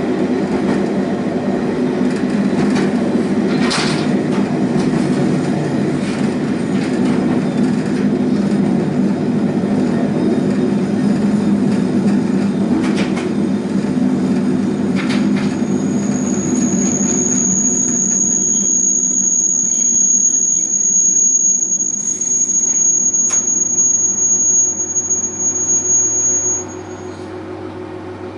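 Sanriku Railway diesel railcar running over jointed rail, rumbling with a few sharp clacks. From just past halfway, a high, steady brake squeal sounds as it slows for the station. It cuts off as the train stops near the end, leaving the engine idling with a low hum.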